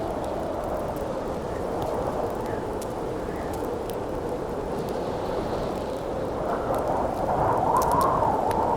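Howling wind blowing steadily, swelling louder about seven seconds in, over the scattered crackles and pops of a wood campfire.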